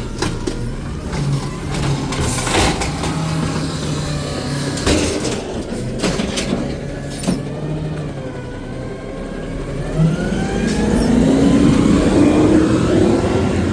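Garbage truck engine idling with a few sharp knocks and clanks, then revving up about ten seconds in and easing off near the end.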